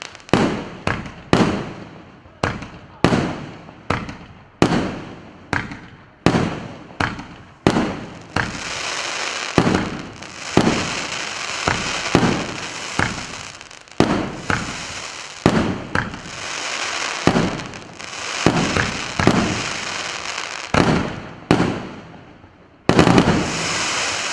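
Firework battery (the PC951 'Brызги Abrau' cake) firing shot after shot: sharp bangs about one or two a second, each trailing off, with stretches of dense hissing and crackling effects between them. It ends with a sudden loud final volley.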